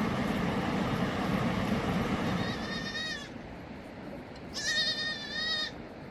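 A lamb bleating twice in short, wavering, high-pitched calls, the second a little louder. Before the calls, a steady rushing noise fades away.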